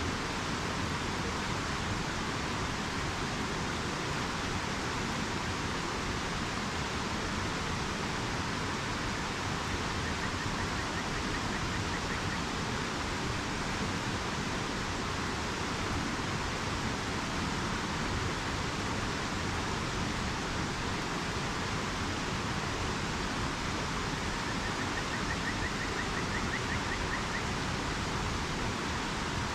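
River water rushing steadily, an even hiss that does not change.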